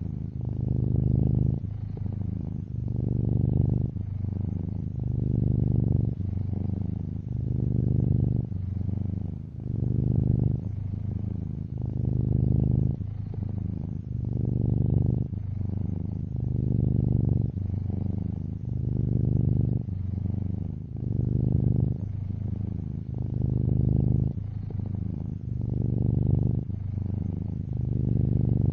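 Domestic tuxedo cat purring, a low, steady buzz that swells and eases in an even rhythm, about once every one and a half to two seconds, as the cat breathes in and out.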